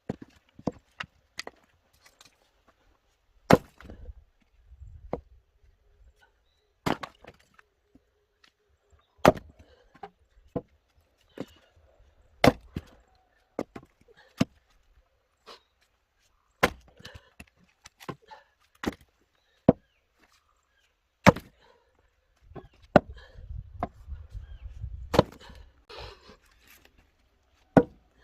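Firewood being split with an axe: sharp, separate chopping strikes into wood, a loud one every few seconds with smaller knocks between.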